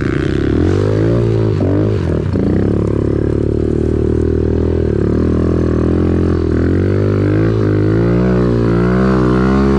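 Small dirt bike engine running near the microphone, holding a fairly steady speed with slight rises and falls in pitch.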